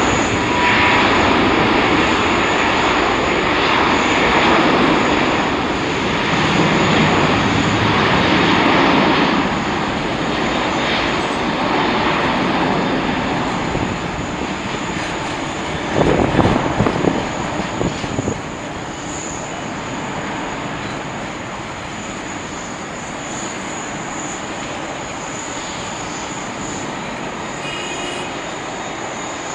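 Jet engines of an Airbus A380, a loud steady rush that gradually fades after about ten seconds as the aircraft moves away. A brief louder low rumble comes about sixteen seconds in.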